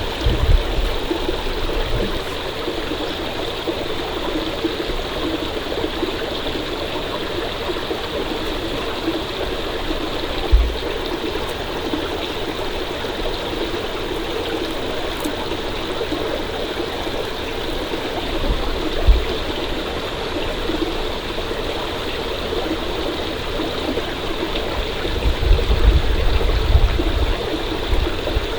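Stream water running steadily, with two brief low thumps partway through and some low rumbling near the end.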